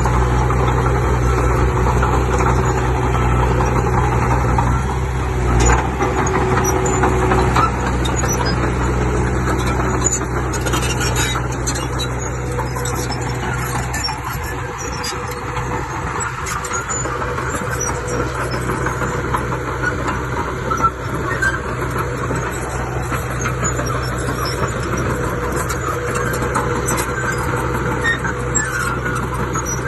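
Diesel engine of heavy earthmoving machinery running steadily, its low engine note weakening about halfway through.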